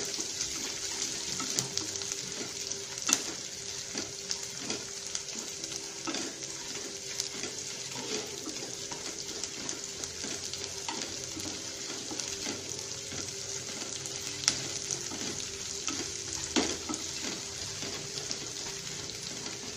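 Sliced onions and green chillies sizzling in hot oil in a non-stick pan, stirred with a wooden spatula that scrapes and taps the pan often, with a few louder knocks.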